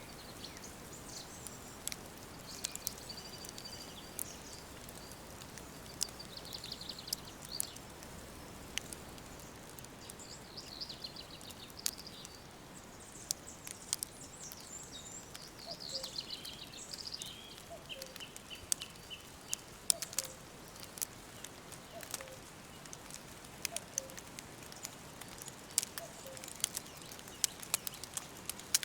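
Songbirds singing in short high phrases, one ending in a falling run of quick repeated notes, over a steady hiss, with frequent sharp crackles and pops of a wood fire.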